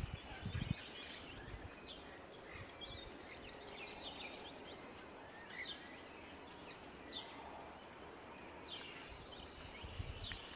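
Faint outdoor ambience full of short, high bird chirps coming every second or so over a steady hiss, with a few brief low rumbles near the start and again near the end.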